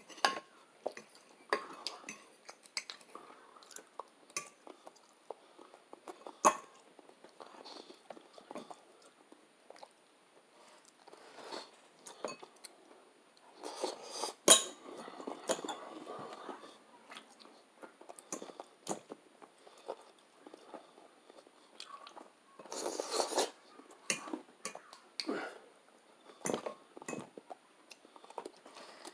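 A person chewing pasta close to the microphone, with scattered sharp clicks of a fork against a dish.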